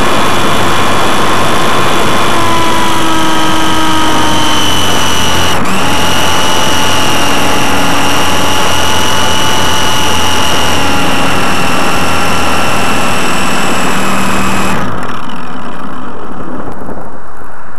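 Electric motor of a GWS Slow Stick model plane whining in flight, with wind rushing over the onboard microphone; the pitch sags slowly, then about fifteen seconds in the motor cuts out suddenly and only the wind noise is left.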